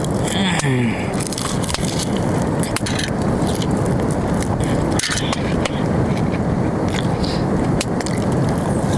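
Steady wind noise buffeting the microphone, with scattered clicks and scrapes throughout and a brief voice about half a second in.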